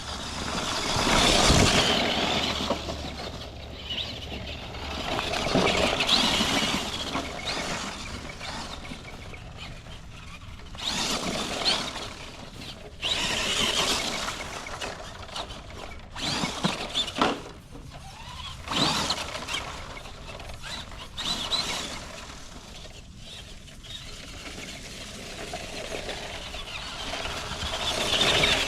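Cen B50 / Jegs Hooligan 1:10 solid-axle RC monster truck driven over a woodland trail in repeated bursts of throttle, each a second or two long. Its brushed Mabuchi 550 motor whines, rising and falling, and the tyres churn over the ground.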